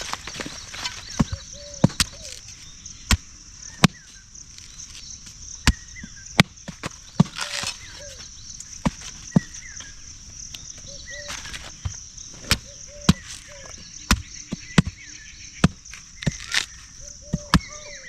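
Blade strokes chopping into a palm fruit: sharp, irregular cuts about once a second.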